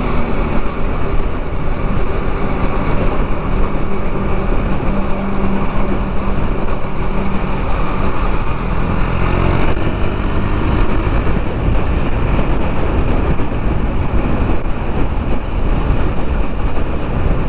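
KTM Duke 390's single-cylinder engine running under way in traffic, under steady wind rumble on the microphone, with the engine note rising briefly about halfway through.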